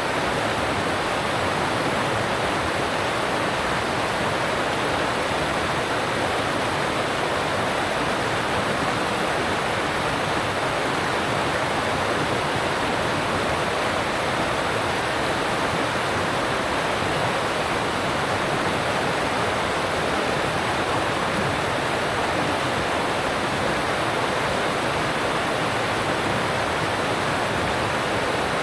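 Alpine stream rushing over rocks: a steady, even rush of water with no change.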